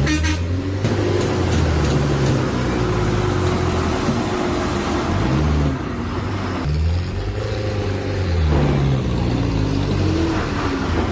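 A motor vehicle's engine revving up and down several times, its pitch rising and falling, with a short rattle of clicks in the first second.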